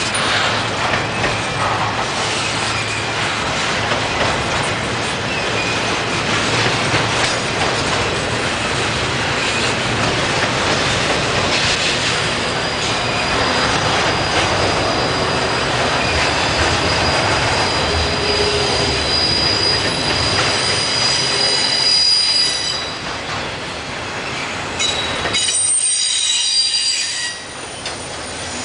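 Slow-moving freight train cars rolling past, with steel wheels on the rails clattering and rumbling. About twelve seconds in, a steady high-pitched wheel squeal sets in and holds for some ten seconds, then returns near the end as the rumble drops away.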